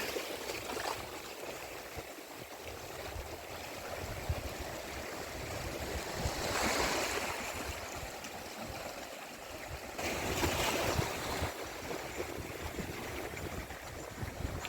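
Sea waves washing onto the beach, swelling twice, about six and ten seconds in, over a steady low rumble of wind on the microphone.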